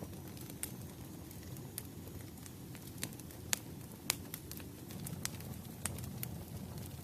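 Wood fire burning: a steady low rumble of flames with irregular sharp crackles and pops, the loudest two coming a little past the middle.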